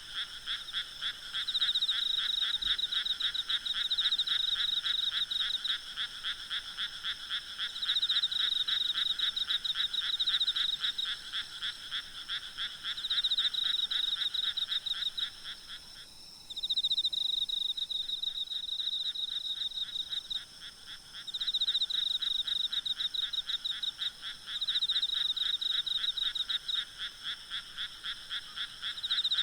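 A night chorus of frogs calling in fast, pulsing trills, layered over steady high-pitched insect trilling. The lower-pitched frog calls stop about halfway through, while the higher ones carry on.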